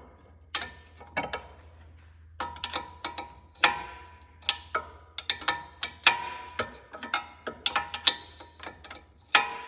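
A hand wrench turning a rusted castle nut off a lower ball joint stud: irregular metallic clicks and clinks, several with a short ringing tone.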